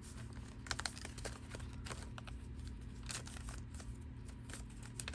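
Paper ephemera pieces being handled, shuffled and set down: a scatter of soft rustles and light taps, over a steady low hum.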